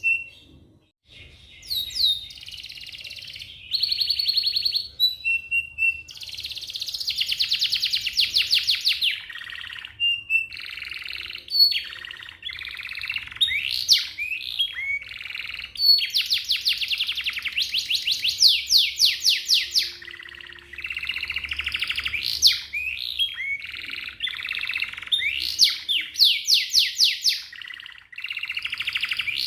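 Domestic canary singing a long song of fast rolling trills, runs of rapidly repeated notes, and short rising whistles, with a brief pause about a second in.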